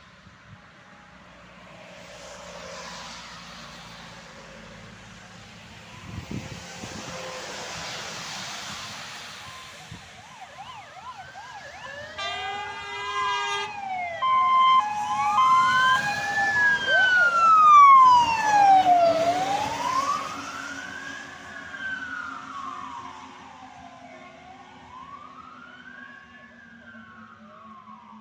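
Fire engines passing on an emergency run: vehicle noise builds, then a blast of air horns about twelve seconds in, followed by a wailing siren sweeping slowly up and down, loudest about eighteen seconds in and fading as the trucks move away.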